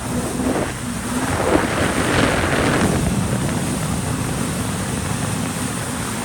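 Jet ski running at speed on open water, its engine hum under a steady rush of wind and water spray on the microphone, with a louder surge of spray about two seconds in.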